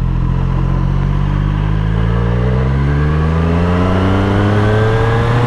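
Triumph Street Triple 765's three-cylinder engine under way, holding a steady note for about two seconds and then rising steadily in pitch as the bike accelerates.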